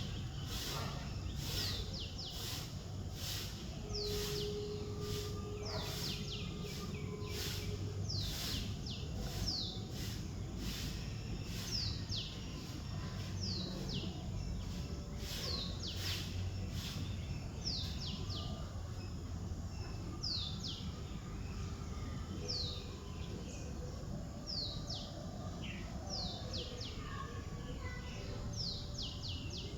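A bird repeating a short, high, downward-sliding call every second or two, over a steady low outdoor rumble. A run of sharp clicks comes through in the first dozen seconds.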